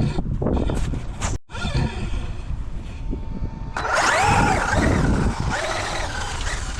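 Traxxas UDR RC trophy truck's brushless electric motor whining as it is driven past, its pitch rising and falling with the throttle, loudest in the second half. There is a brief break in the sound about a second and a half in.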